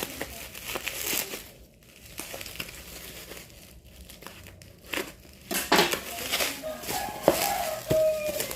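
Plastic packaging crinkling and rustling as it is handled, with scattered small clicks and knocks.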